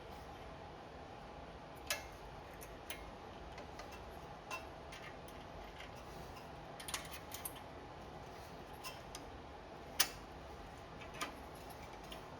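Scattered light clicks and taps of small metal parts: a generator engine's throttle linkage rod and governor spring being handled and hooked into place. About a dozen irregular clicks, the loudest about ten seconds in, over a faint steady hum.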